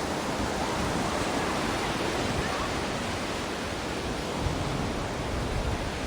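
Ocean waves breaking and washing on the shore: a steady, even noise of surf with no music.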